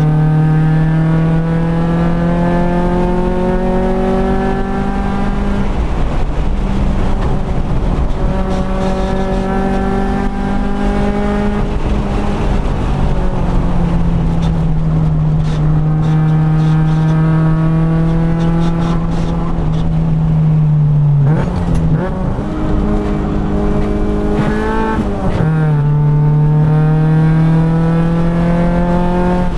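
Honda B20 VTEC-swapped four-cylinder engine heard from inside the cabin under hard track driving: the engine note climbs with the revs, drops at an upshift about six seconds in and climbs again, then holds lower and steadier. A little past twenty seconds the revs swing quickly up and down twice, then the engine pulls steadily again.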